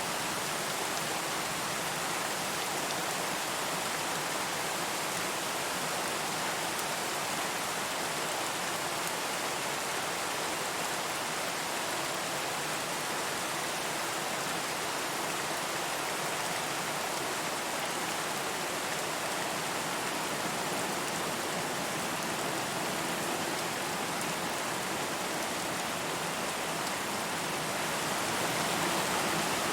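Steady rainfall, an even hiss of rain falling on surfaces, rising slightly in level near the end.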